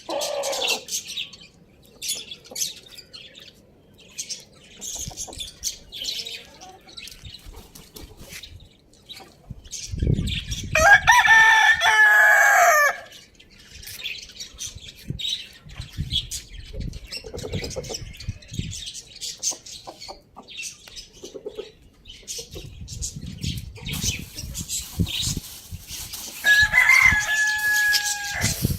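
A rooster crows once, a loud, long call about eleven seconds in, over steady high chirping of small birds. Another shorter, steady call comes near the end.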